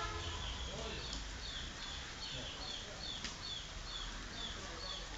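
A bird calling over and over in short, high, falling chirps, about two a second, over a steady low rumble. There are a couple of sharp clicks about a second in and again past three seconds.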